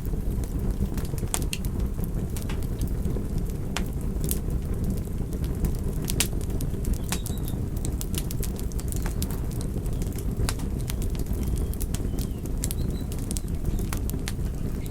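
Wood fire burning: a steady low rush of flames with irregular sharp crackles and pops from the burning wood, several every few seconds.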